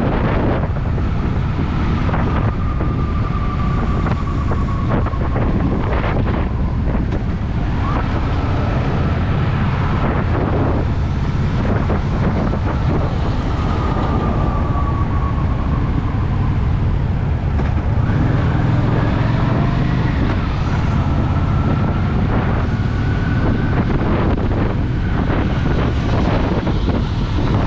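Heavy wind buffeting the microphone over the running engine of a Honda Shadow VT750, a V-twin cruiser motorcycle under way. Faint tones glide up and down now and then through the steady noise.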